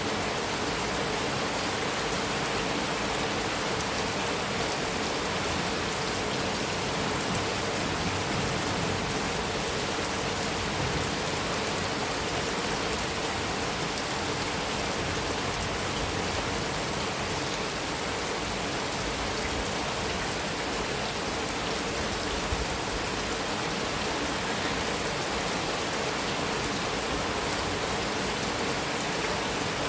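Heavy rain falling steadily on a metal roof, an even, unbroken hiss with no thunder.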